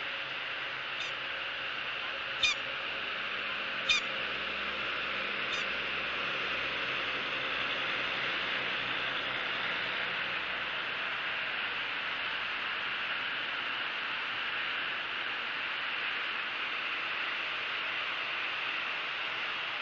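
Four short, sharp bird calls spaced about a second and a half apart, the middle two much louder, over a steady outdoor hiss.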